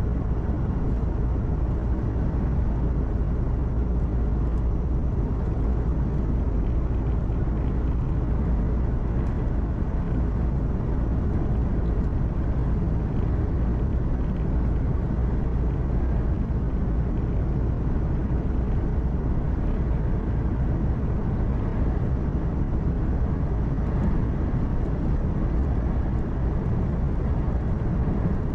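Truck engine running at cruise with tyre and road noise, heard from inside the cab: a steady low drone without change.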